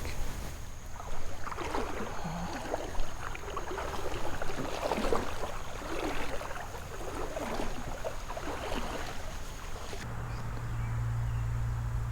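Irregular sloshing and splashing of water, like someone wading through a shallow creek. A steady low hum comes in near the end.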